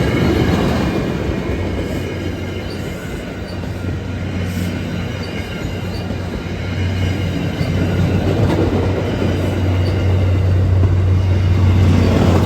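MBTA diesel commuter train with two locomotives pulling out and rolling past, with steady wheel and rail noise and some high squealing. It gets louder again in the second half.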